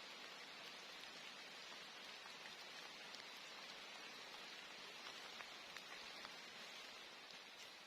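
Steady rain falling in a forest, a soft even hiss with scattered drop ticks.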